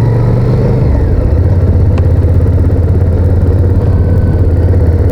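Honda VTR1000F's 90-degree V-twin engine running steadily while riding, its note stepping down slightly about a second in.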